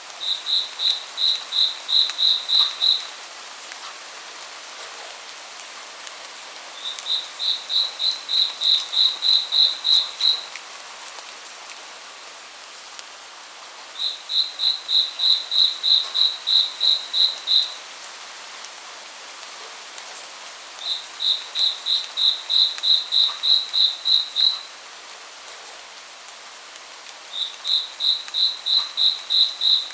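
Steady rain hiss, with a high chirping call repeated in five phrases of about a dozen evenly spaced notes, roughly three a second. Each phrase lasts three to four seconds and swells in loudness, with a few seconds of rain alone between them.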